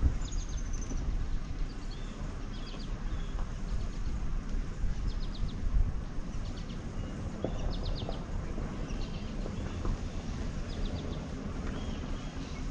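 Small birds chirping over and over, in short high chirps and quick clusters of notes every second or so, over a steady low rumble.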